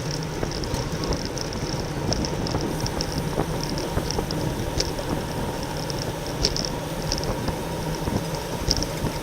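Steady rumble of wind and road noise picked up by a camera on a road bike riding at race speed in a criterium pack, with short high-pitched chirps every so often.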